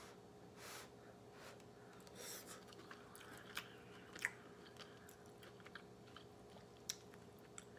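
Faint chewing of a mouthful of jerk chicken and rice, with soft irregular mouth clicks. A faint steady hum runs underneath.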